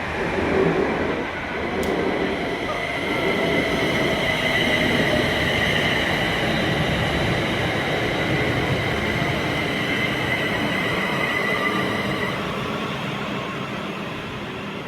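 A train running past on the main line: a loud steady rush of wheels and rails with a high steady whine over it, the noise dying away near the end.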